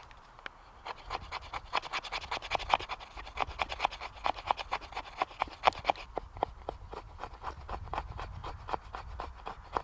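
Rapid, repeated scratching strokes, several a second, starting about a second in.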